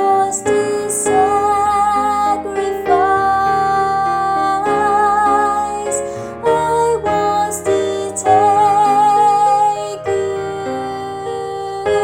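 A woman singing a soprano harmony line, holding long notes with vibrato, over piano accompaniment.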